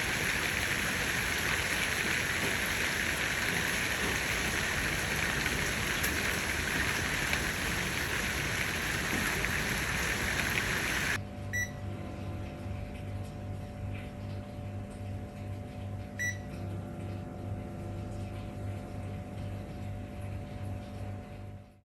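Heavy typhoon rain, a loud steady hiss, for about the first half; then it cuts off suddenly to a much quieter steady electrical hum with a low pulsing drone and two short high pips.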